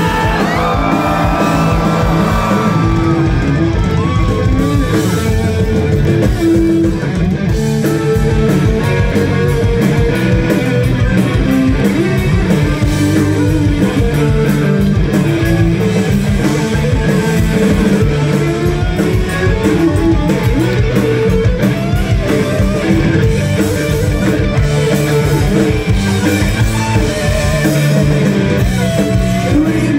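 Live rock band playing an instrumental break, with guitar out front over bass and a steady drum beat.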